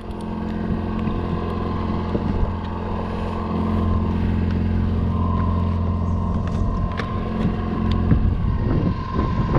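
A boat's outboard motor running steadily, trolling crankbaits, with some wind on the microphone.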